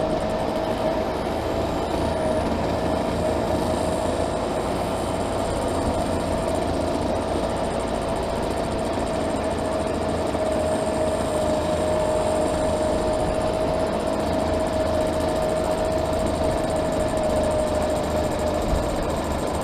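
Classic motorcycle engine running at a steady cruising speed: an even drone with one constant high tone that barely changes pitch, under rushing noise on the helmet-camera microphone.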